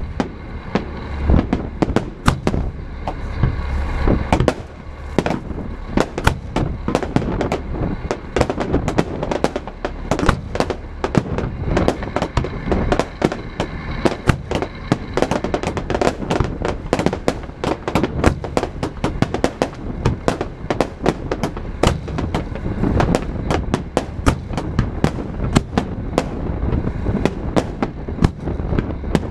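Fireworks display: a dense, continuous barrage of sharp bangs and crackling, several reports a second over a steady low rumble.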